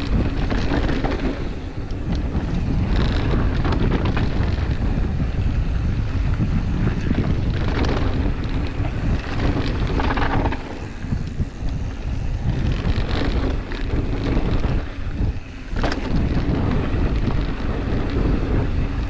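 Wind buffeting the microphone over the rattle and clatter of a Pivot Switchblade mountain bike descending a rough downhill trail full of braking bumps, with a few sharp knocks from harder impacts. The noise eases somewhat about halfway through.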